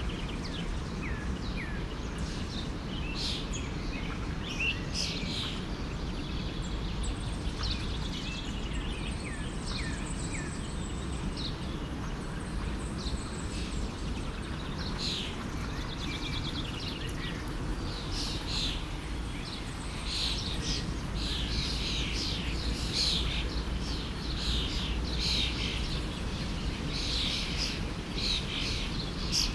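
Several small birds chirping and calling over a steady low rush of flowing stream water; the calls come thicker in the second half.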